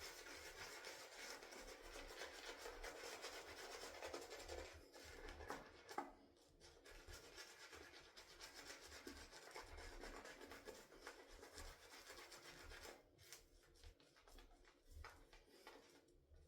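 Shaving brush (26 mm quartermoon knot) swirling and rubbing a heavily watered soap lather, a faint continuous swishing with a brief pause about six seconds in. It dies down to a few light scratches about thirteen seconds in.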